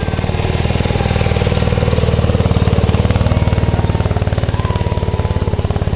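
A miniature ride-on railroad locomotive's engine running steadily with a fast, even pulse.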